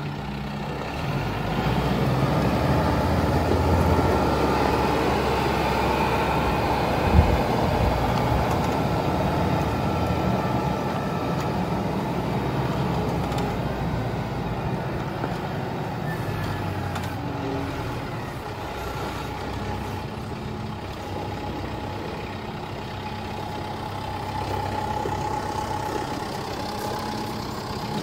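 Truck-sized vehicle engine running, its low pitch shifting in steps, over a steady rush of noise, with one sharp knock about seven seconds in.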